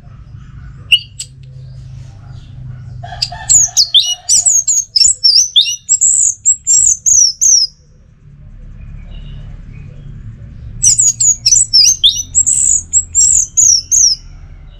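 Orange-headed thrush singing two long phrases of rapid, varied whistled notes full of quick downward slurs. The first phrase starts about three seconds in and the second about eleven seconds in, over a low steady rumble.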